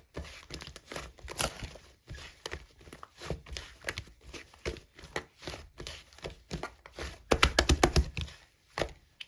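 Slime being squeezed and stretched by hand, giving a run of sticky crackling and popping clicks, densest and loudest about seven to eight seconds in.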